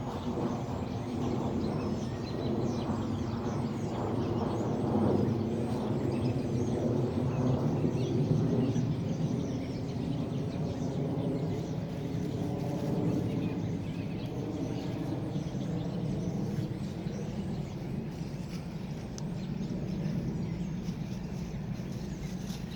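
An airplane passing overhead: a low engine drone that swells a few seconds in and then slowly fades, with birds chirping faintly in the forest.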